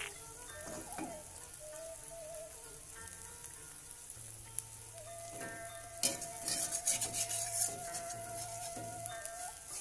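Egg omelette frying in hot oil in an aluminium wok, with a steady sizzle. A louder stretch of crackling and spitting comes about six seconds in.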